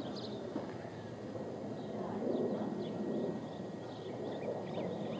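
Outdoor ambience: a steady low rush of background noise with scattered short, high bird chirps.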